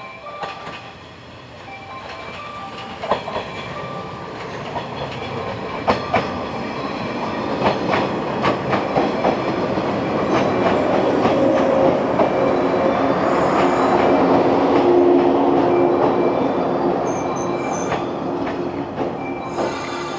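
Electric multiple-unit train (Okayama depot set A12) running in along the station track. It grows louder as it nears and passes, with its wheels clicking over rail joints, and a steady hum joins in about halfway through.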